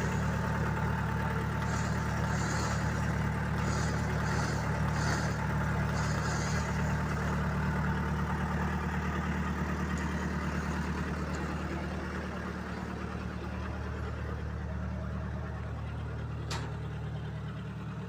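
Tow truck's engine running steadily while the winch pulls a car up onto the truck, with a steady higher whine over it for the first few seconds. A single sharp click comes near the end.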